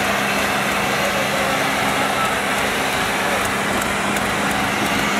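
Mahindra Arjun 605 tractor diesel engines running steadily and loudly over a dense noise, with faint crackling ticks in the second half.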